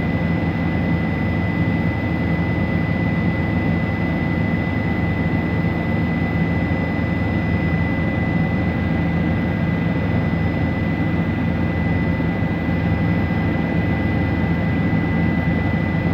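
Helicopter in flight: a steady, loud drone of engine and rotor with a constant high whine over it.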